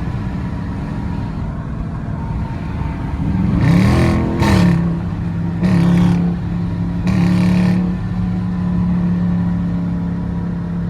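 Dodge Charger R/T's V8 engine heard from inside the car, revving up in several loud surges about four to eight seconds in, then settling into a steady drone while cruising.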